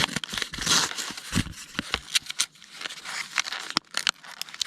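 A box of post-it notes being opened by hand: packaging crinkling and tearing, with scattered clicks and rustles.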